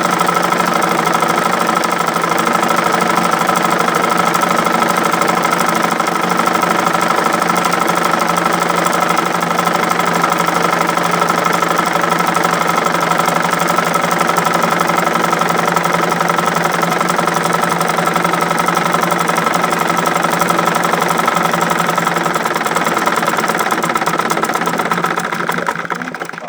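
Treadle (foot-pedal) sewing machine stitching embroidery at a steady speed, a rapid even clatter of needle strokes. It slows near the end and stops.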